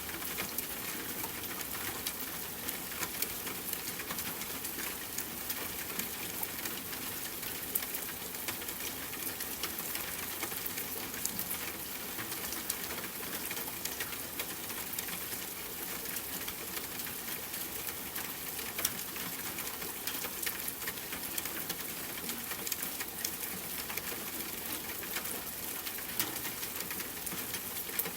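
Steady rain falling together with a crackling campfire: an even hiss scattered with frequent sharp pops.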